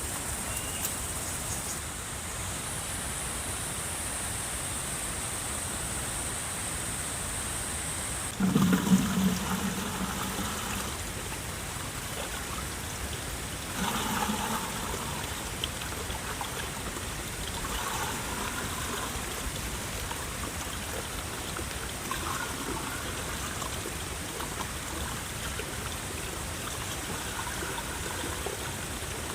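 Steady trickling of running water. A louder short sound comes about eight seconds in, and softer short sounds follow every few seconds.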